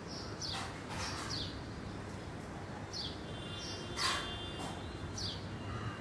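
Birds calling in trees: short high chirps that drop in pitch, repeated every second or two, with a louder, sharper call about four seconds in followed by a brief held note.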